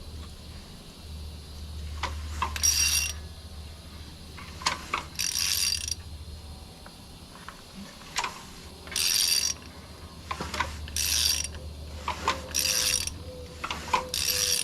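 A ratchet on the crankshaft bolt of a Ford 6.2L V8 clicks in about six short runs as the engine is turned over by hand with its spark plugs out, to push water from the cylinders. Knocks and clicks come between the runs, over a low steady hum.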